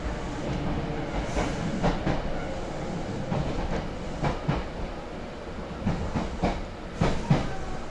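Hankyu 6300 series electric train running on the rails, heard from inside the car: a steady rumble with irregular wheel clicks and clacks over the track.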